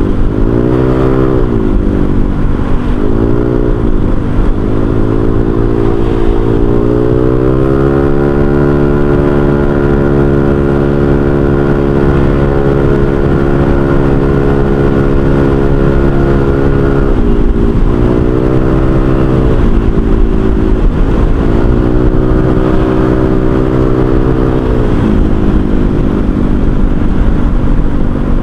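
Honda Vario 125 scooter's single-cylinder engine through an aftermarket racing exhaust, under way. The engine note rises and eases off twice in the first few seconds, then holds a steady cruise for about ten seconds, drops briefly, and rises and falls a few more times near the end.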